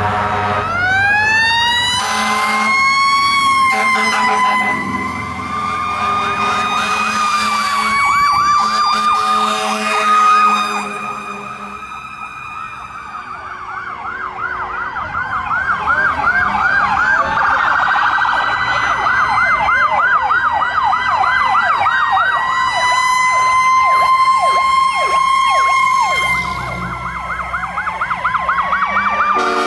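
Fire truck sirens passing. A mechanical siren winds up in a rising glide about half a second in and holds a slowly wavering wail. An electronic siren yelping in rapid up-and-down cycles overlaps it through most of the middle.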